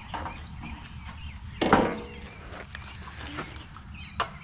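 Handling noises from working on the tractor's ignition parts: a dull knock about a second and a half in and a sharp click near the end, over a steady low hum.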